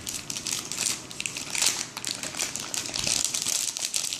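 Crinkly surprise-bag packaging being handled and rummaged through, crackling in uneven bursts as the stickers are pulled out of it.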